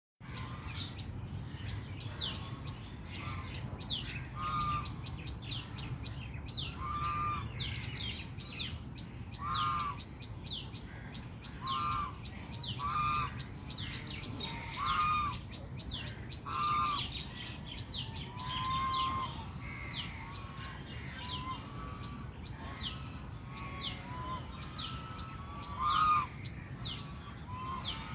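Birds calling: a tailorbird's quick, high, falling chirps repeat several times a second, and a louder, lower call sounds every second or two, over a steady low rumble.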